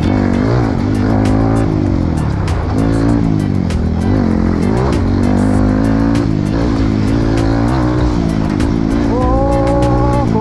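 Trail motorcycle engine revving up and down over and over as the throttle is worked off-road, with scattered clicks and knocks.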